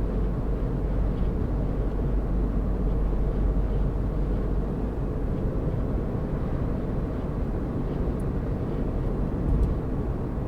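Steady low rumble of a car driving along a road: engine and tyre noise, with a brief bump near the end.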